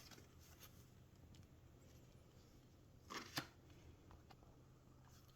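Near silence, broken about three seconds in by a short rustle and snap of paper postcards being handled.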